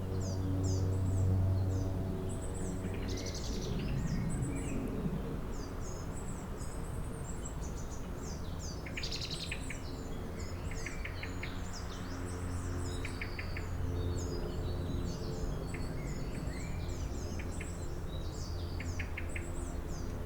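Several songbirds chirping and singing in quick, overlapping short calls and trills, over a steady low hum.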